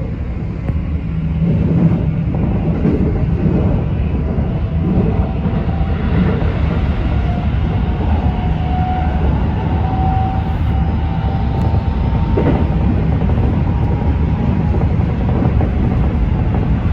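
Keikyu electric train running and picking up speed: a faint whine from the traction motors slowly rises in pitch over a steady rumble of wheels on rail. There is a single knock about three-quarters of the way through.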